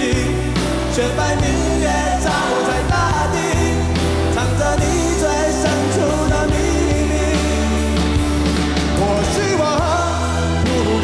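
Live pop-rock band performance with a voice singing over sustained bass notes and regular drum hits.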